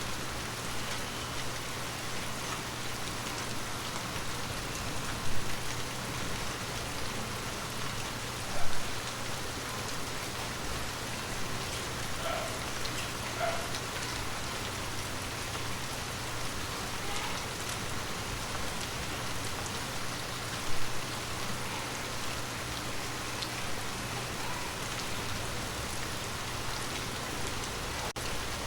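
Water drops tapping on glass over a steady patter, with scattered single drops pinging out and three louder drops about 5, 9 and 21 seconds in.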